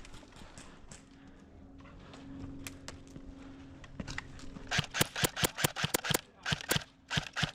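Airsoft guns firing: a few scattered single shots, then rapid bursts of about six or seven shots a second starting a little past halfway.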